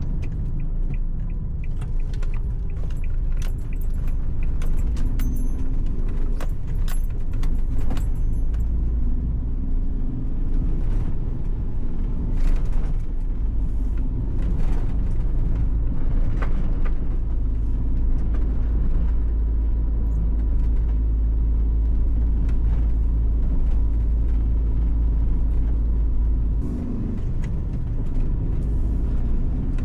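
Inside a Suzuki Every kei van's cabin while driving: a steady, loud low rumble of road and engine noise, with light rattling clicks from loose items.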